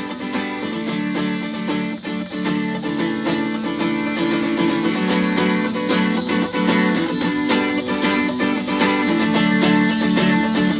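Live worship-band music with a strummed guitar carrying the chords in an instrumental passage between sung lines, at a steady rhythm.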